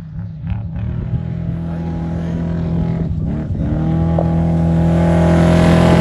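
Off-road race vehicle's engine running hard at high revs, growing steadily louder as it approaches. Its pitch dips briefly about halfway through and then holds steady again.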